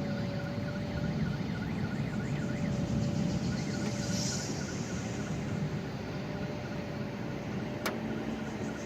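Steady low vehicle rumble with a faint steady hum above it, and a single sharp click near the end.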